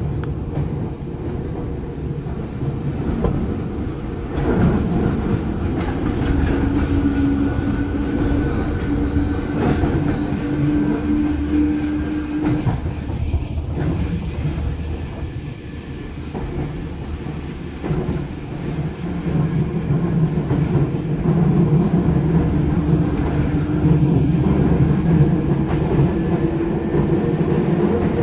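Seibu 2000 series electric train running: the traction motors and gears whine, rising in pitch twice as the train gathers speed, once in the first half and again from the middle to the end, over the steady rumble and clickety-clack of the wheels on the rails.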